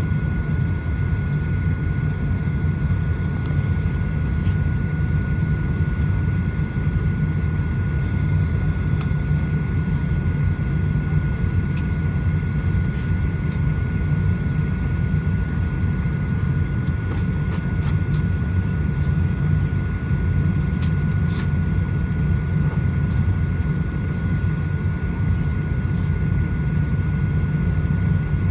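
Steady cabin noise inside a Boeing 737-900ER before pushback: a deep rush of air from the ventilation with a constant high whine, and a few faint clicks.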